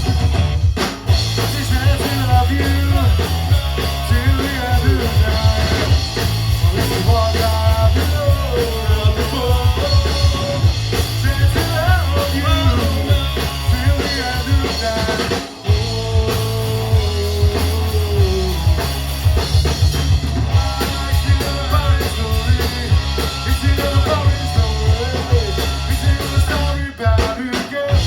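Loud punk rock band playing, with drum kit, distorted guitars and bass, and the music breaking off briefly a few times.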